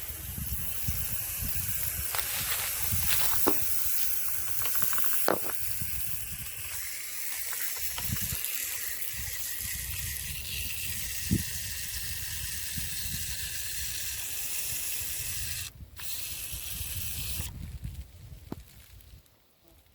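Hand pump sprayer spraying soapy water with a steady hiss, broken by a few clicks of handling, and stopping near the end.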